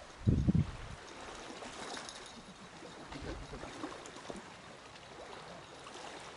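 Steady trickling, splashing water noise, with a short low thump just after the start.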